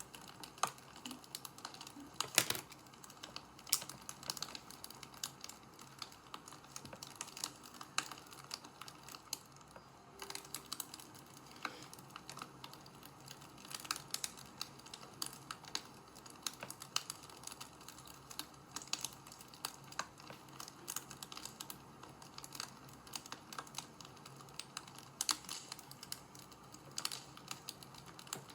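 Wood fire crackling: irregular sharp pops and snaps of varying strength over a faint hiss.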